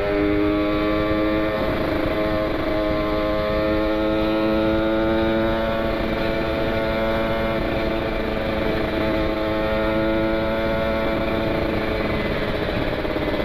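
Kawasaki Ninja 150 RR's single-cylinder two-stroke engine pulling under throttle while riding, its pitch climbing slowly several times through the gears, with wind rushing over the microphone.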